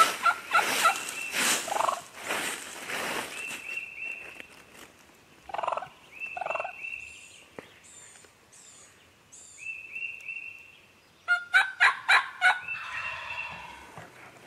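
Wild turkey gobblers gobbling: rattling gobbles near the start and a loud rapid gobble about eleven seconds in.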